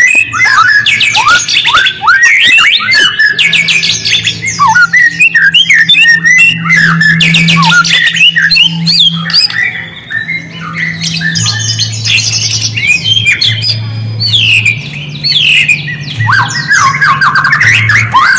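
Recorded songbird calls used as a lure for white-rumped shamas: a dense, loud stream of rapid whistles, sweeping notes and chattering phrases, with a low steady hum underneath.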